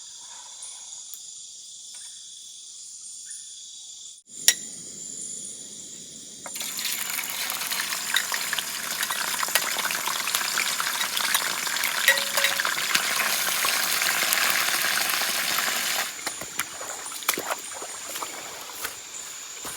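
Meat frying in hot oil over a campfire: a loud sizzle starts about six seconds in, then drops to a quieter crackle about sixteen seconds in. Before it, insects drone steadily.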